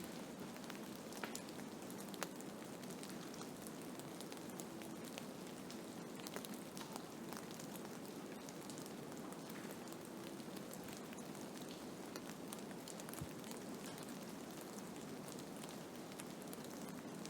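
Blizzard: a steady hiss of storm noise scattered with many small ticks, like driven snow or ice striking surfaces.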